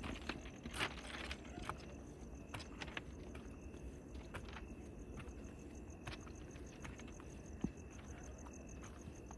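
Footsteps on railway track ballast: irregular crunches and clicks, with a sharper knock about a second in and another near the end, over a low steady rumble and a thin, steady high insect drone.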